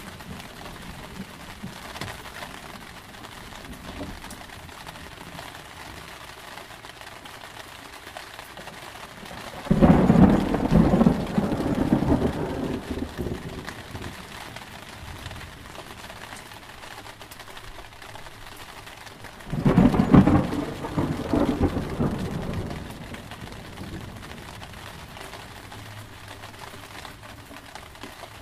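Steady rain with two loud thunderclaps about ten seconds apart. Each breaks suddenly and rumbles away over a few seconds.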